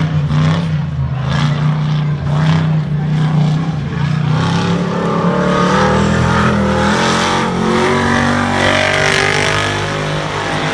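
Tuff truck's engine running hard on a dirt obstacle course. It holds a steady low note, then revs with higher pitches climbing in the second half.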